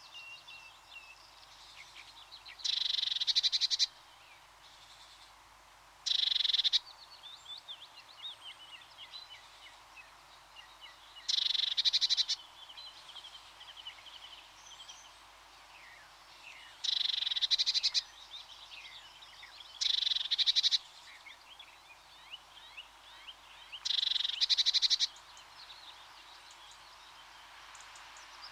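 Tits giving rattling churr calls: six short rattles, each about a second long, spaced a few seconds apart. Faint high chirps of small birds carry on between them.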